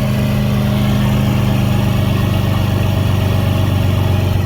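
1995 Ford F-150's 4.9-litre straight-six running through a freshly fitted straight-pipe exhaust with no muffler (2¼-inch from the manifolds into 2½-inch pipe): a loud, steady low exhaust drone. It swells slightly in the first second, then holds steady.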